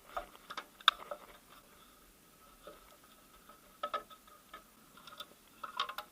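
Scattered light clicks and clinks of hand tools and loose parts while the lower timing belt cover comes off a car engine, in short clusters near the start, about four seconds in, and near the end.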